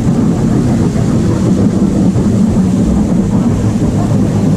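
Steady, loud low rumble aboard a river rapids raft ride, with no sudden events.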